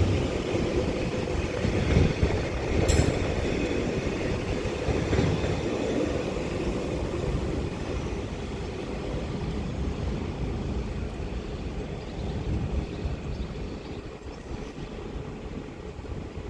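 Northern Class 331 electric multiple unit pulling out of the station, its running noise slowly fading as it moves away, with a sharp click about three seconds in.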